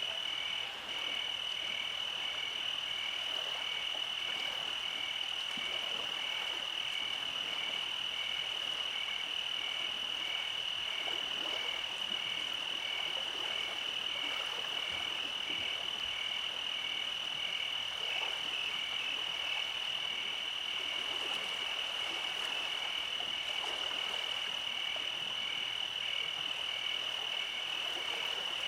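Nighttime chorus of calling animals: a continuous high-pitched trill, with a second caller chirping at an even pace about twice a second, over a soft hiss.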